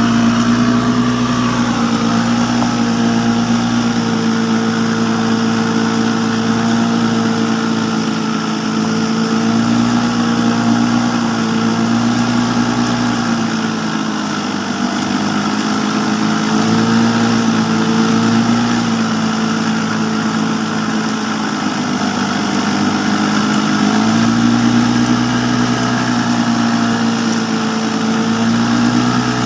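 An engine running steadily at a constant speed, its pitch dipping slightly and recovering a few times.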